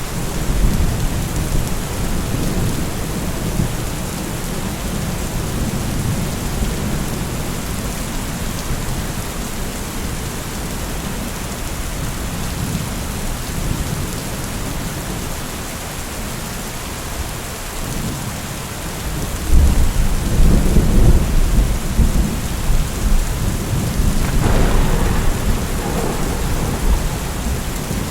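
Steady heavy rain hissing, with low rolling thunder under it. The thunder rumble swells louder about two-thirds of the way through and rolls on to the end.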